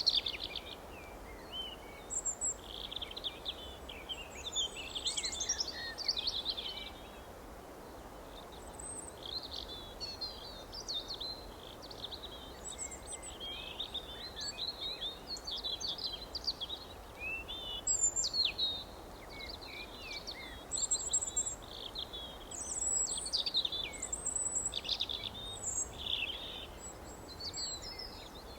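Several songbirds chirping and trilling in overlapping short phrases, over a steady low background hiss.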